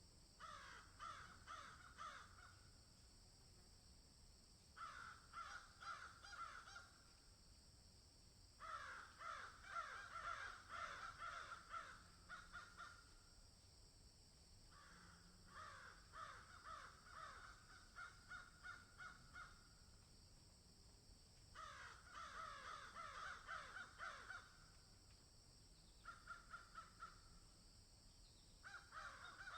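Harsh, rapidly pulsed animal calls in repeated bouts of one to five seconds, about seven bouts, over a steady faint high hiss.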